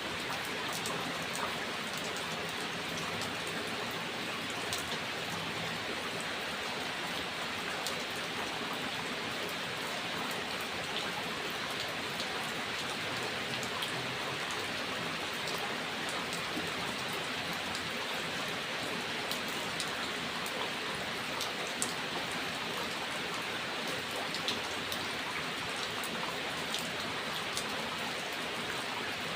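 Steady rain, with individual drops ticking sharply on a hard surface here and there.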